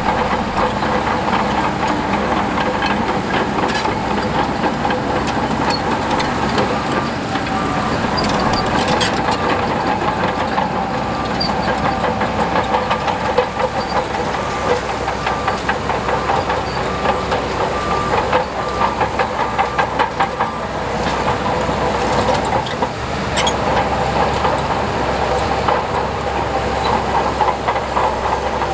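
Heavy diesel earthmoving machinery running steadily under load, with frequent metallic clanks and rattles. A short, evenly spaced beep repeats through the middle.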